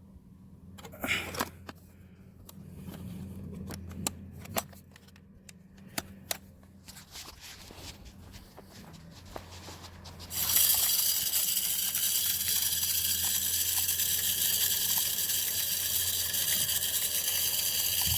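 Deer feeder going off about ten seconds in: its spinner starts flinging corn out with a sudden, steady rushing hiss. Before it, a few faint clicks and knocks.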